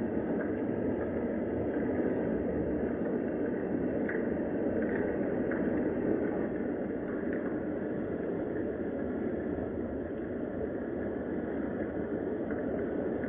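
Steady rain: an even, unbroken noise with a few faint scattered taps.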